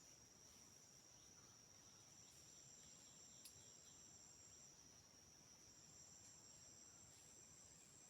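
Faint, steady high-pitched trilling of forest insects, with a second, higher trill fading in and out and a single sharp click about three and a half seconds in.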